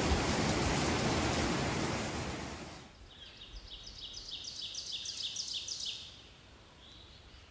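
A creek rushing over rocks, fading out about three seconds in. Then, in the quieter woods, a rapid run of high chirps, about four a second, lasting about three seconds.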